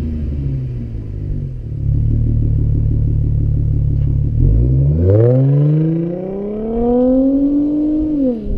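Car engine and exhaust running with a steady low drone, then revving: about four and a half seconds in, the pitch climbs steadily for some three seconds, then falls away near the end.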